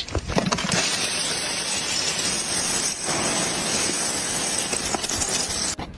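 Ice crunching and breaking up in a dense, continuous crackle, with a brief break about three seconds in.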